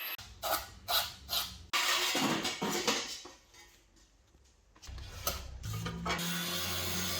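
A quick run of workshop tool sounds: a few sharp knocks about a second in, a noisy rasping stretch, more knocks past the middle, and a steady machine hum near the end.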